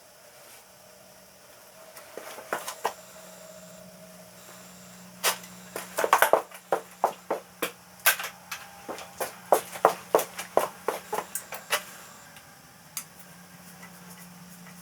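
A rapid, irregular run of sharp metallic clicks and clinks, bunched from about five to twelve seconds in, as of metal parts and tools being handled, over a faint steady hum.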